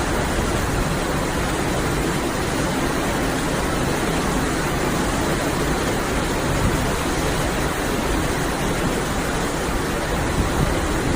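Steady rushing noise of a boat under way at sea: wind and water with an engine underneath, even and unbroken throughout.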